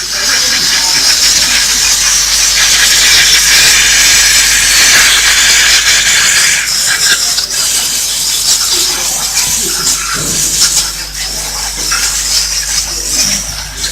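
Compressed air hissing loudly from a compressor's blow gun as disc brake parts are blown clean. It is steadiest over the first seven seconds or so, then comes in more uneven blasts.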